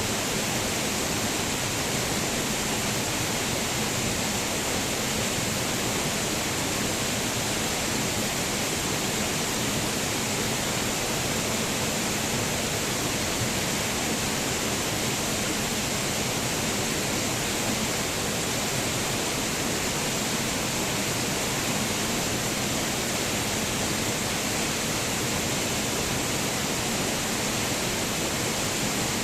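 Waterfall pouring steadily, an even rushing hiss of falling water with no breaks or changes.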